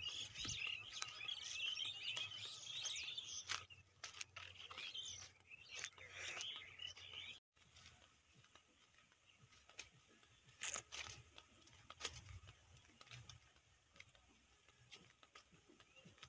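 Many birds chirping in a dense, continuous chorus for about the first seven seconds, then cut off abruptly. After the cut only faint scattered clicks and rustles remain.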